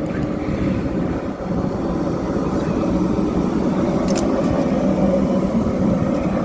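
Old tram running past: a steady rumble of its motors and wheels on the rails that swells slightly toward the end, with a brief sharp high click about four seconds in.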